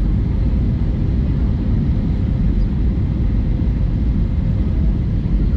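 Steady low roar of an Airbus A320-200 in flight, engines and airflow heard inside the passenger cabin, with a faint steady hum over it.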